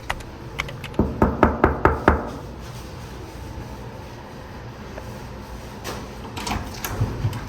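A quick run of about eight sharp knocks and clicks within a second, then faint room sound with a few scattered clicks near the end.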